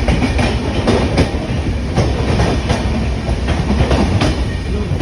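A train running on the rails: a steady low rumble with the wheels clicking over rail joints at irregular intervals.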